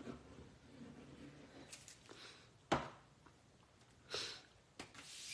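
Card and paper pieces handled and pressed down on a craft desk, faint rustling with a sharp click nearly three seconds in and a brief rustle and smaller click about a second later.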